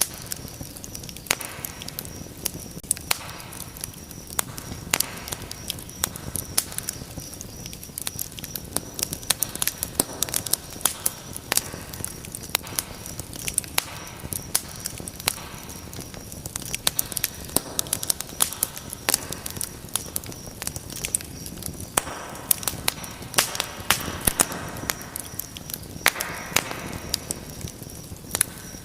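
Wood fire in a fireplace crackling, with frequent irregular sharp pops over a steady low rush of flame. A stretch of louder hissing comes about three-quarters of the way through.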